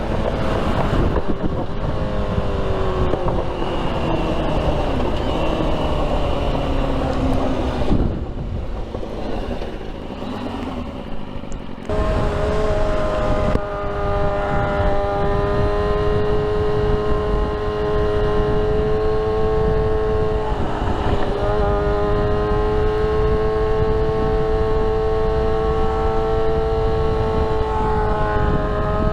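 Sport motorcycle engine heard while riding: the revs fall steadily over the first several seconds as the bike slows, drop away for a few seconds, then hold a steady, slowly climbing tone at cruising speed over a constant rush of noise.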